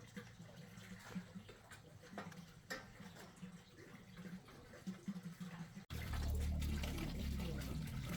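Running water with scattered light clicks and knocks. About six seconds in it cuts abruptly to a louder, steady rush of water.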